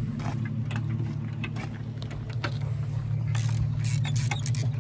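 A vehicle engine idling steadily, with a scatter of short sharp clicks and clinks from hand tools being worked under an open hood.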